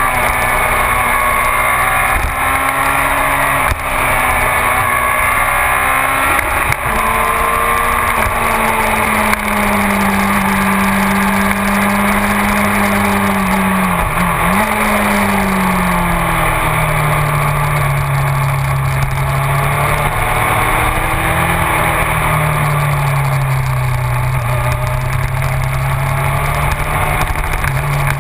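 Yamaha R6 sport bike's inline-four engine running hard, its pitch rising and falling with the throttle through the bends, with a brief dip and jump in pitch about halfway through. Steady wind rush runs under it.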